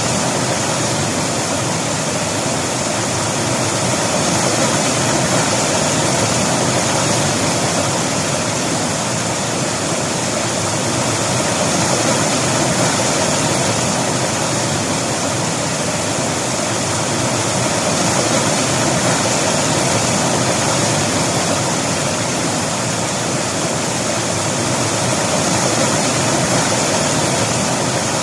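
River water rushing and splashing over rocks in a steady, even roar that swells and eases slightly every few seconds.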